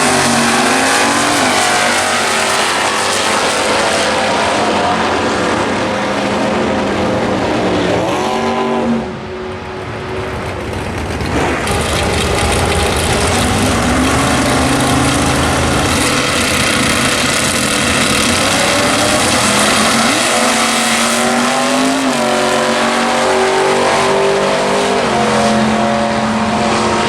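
Drag-racing muscle cars' engines at full throttle, revs climbing in rising sweeps. The engine noise drops sharply about nine seconds in and builds again.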